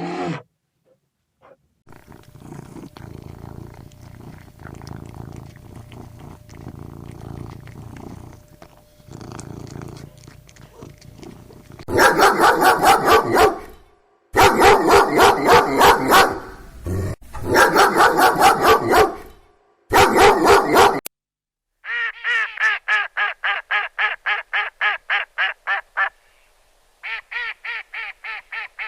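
A series of animal calls. First comes a low, rough rumble lasting about ten seconds. Then come several seconds of loud, rapidly repeated calls in short runs, and near the end a fast, even series of short calls at about four a second.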